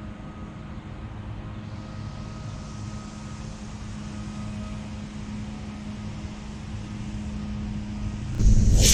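A steady low hum and rumble, then near the end the sudden loud rushing hiss of a model rocket's B-class solid-propellant motor igniting at launch.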